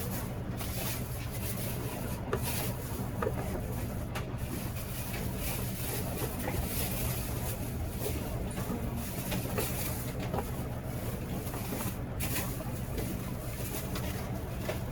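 Steady low engine-like hum running without change, with a few faint clicks.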